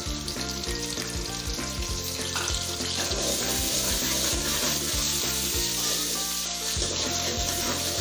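Ginger-garlic paste frying with browned onions in hot oil in a karahi, sizzling steadily as it is stirred.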